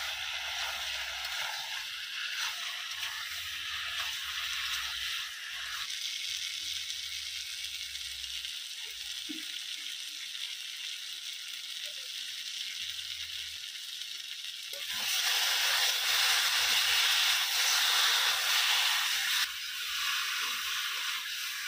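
Jackfruit curry sizzling as it fries in an iron wok over a wood fire, stirred now and then with a wooden spatula. The sizzle turns louder for a few seconds about two-thirds of the way through.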